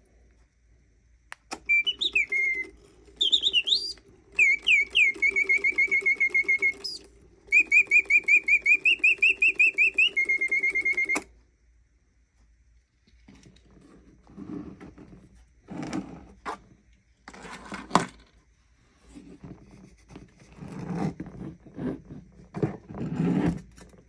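Mechanical singing-bird automaton whistling a warbling, chirping birdsong in several phrases over a steady mechanical hum, stopping abruptly after about ten seconds. Irregular rustles and knocks follow.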